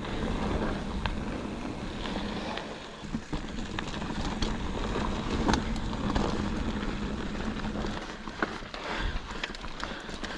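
Mountain bike coasting along a dirt trail: steady tyre rolling noise and wind on the microphone, with scattered clicks and rattles from the bike over rough ground. The ride noise eases off a little after about 8 seconds.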